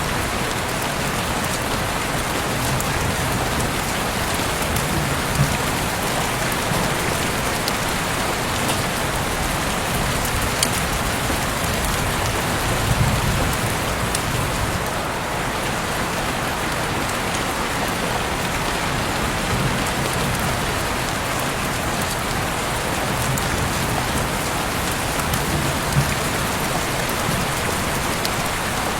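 Heavy rain pouring steadily, a dense even hiss of rain on surfaces with a few louder single drops ticking now and then.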